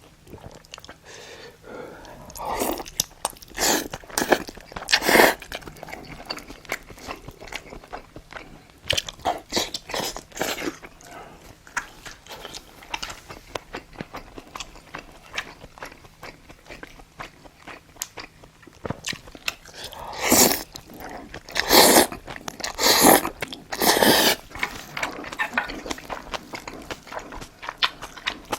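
Close-miked chewing, biting and crunching of mouthfuls of spicy braised monkfish (agujjim), many small wet clicks, with a few louder, longer noisy bursts, a cluster of them about twenty seconds in.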